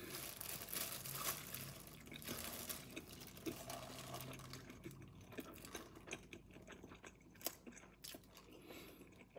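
Quiet chewing of a rice ball seasoned with furikake and pollock roe, with a low closed-mouth hum twice in the first half. Later come faint crinkles and small clicks from a plastic-gloved hand working rice in a bowl.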